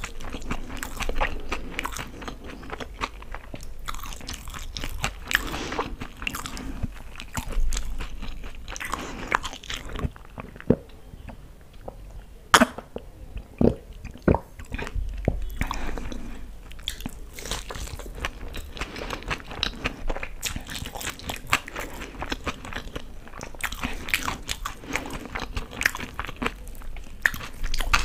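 Close-miked eating: biting into and chewing fried pakoras soaked in green chutney, with moist crunching and chewing sounds throughout. A few sharper clicks stand out around the middle.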